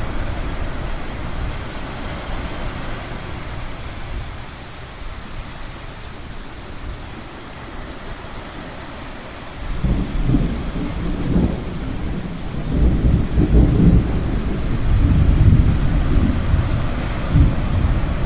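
Thunder rumbling over a steady wash of ocean surf. The thunder comes in about halfway through as low rolling surges and is loudest in the last third.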